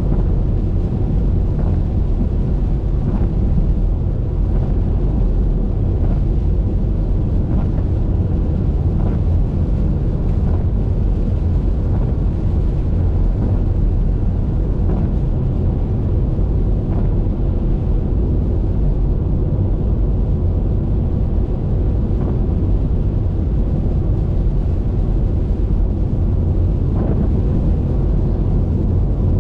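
Car driving on a wet highway: a steady, deep rumble of road and wind noise, with a few faint ticks scattered through it.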